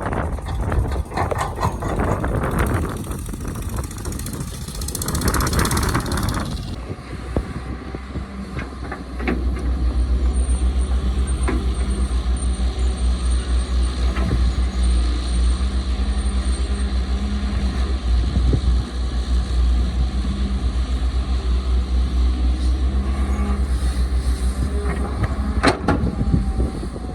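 CAT excavator's diesel engine running under load, a low pulsing rumble that strengthens and holds steady about a third of the way in. It is preceded by a rushing noise, with a sharp knock near the end.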